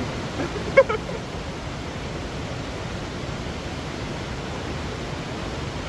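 Steady rushing of river water. A short pitched sound, like a brief call or cry, stands out about a second in.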